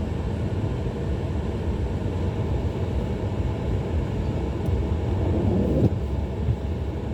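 Steady low rumble of a vehicle driving slowly on a snowy road, heard from inside the cabin. A brief swell of noise stops abruptly about six seconds in.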